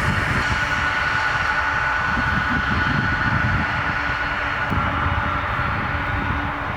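Boeing 747 jet engines running, a steady high whine over a low rumble, the whine sinking slightly in pitch.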